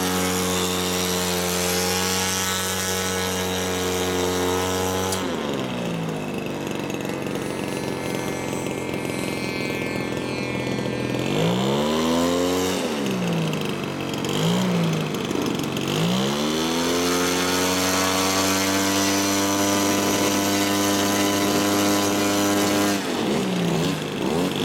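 P6 Hawk RC model airplane's motor running at a steady pitch, stepping down to a lower pitch about five seconds in. Between about twelve and sixteen seconds it is throttled down and back up several times, then holds a steady note, with another brief dip near the end.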